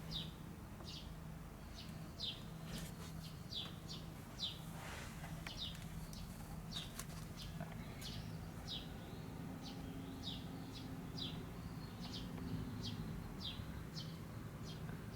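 A small bird chirping over and over, short high downward chirps about one and a half to two a second, with a faint steady low hum beneath.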